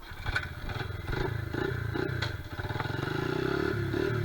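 Honda XR70R pit bike's small single-cylinder four-stroke engine catching on a cold kick-start and running. It sputters unevenly for the first couple of seconds, then settles into a steadier run with small rises in pitch.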